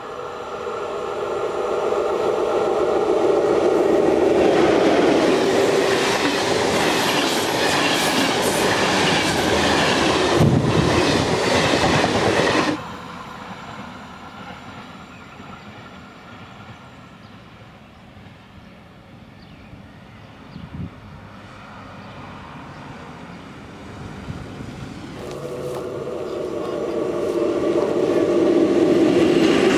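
Electric-hauled passenger train running past at speed, a loud rolling noise carrying a steady whine that drops in pitch as it passes. The sound cuts off abruptly about 13 seconds in to a quieter rumble of a train moving away. A second electric locomotive with its coaches approaches in the last few seconds, its whine and rolling noise growing louder.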